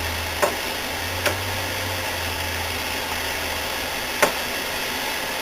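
Flood-damaged CRT television running with a steady hiss and a low hum, broken by three faint clicks.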